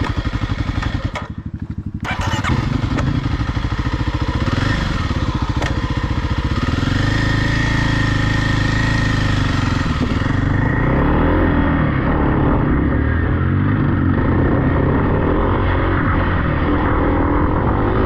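Off-road vehicle engine running under throttle: it eases off briefly about a second in, then revs back up, and its pitch rises and falls as the throttle changes.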